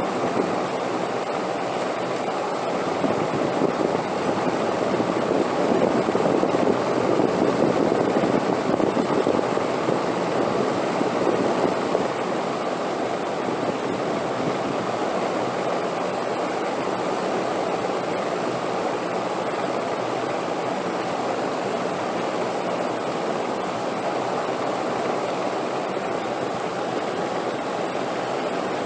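Continuous rushing wind. It swells louder as a gust from about four seconds in, eases off around twelve seconds, and then blows steadily.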